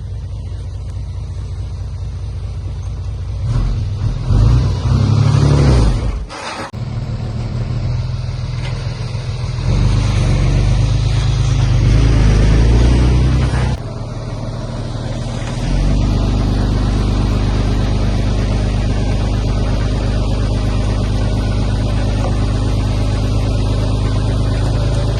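Heavy diesel engine of earthmoving equipment running, revving up twice in the first half with a brief sudden drop between, then running steadily.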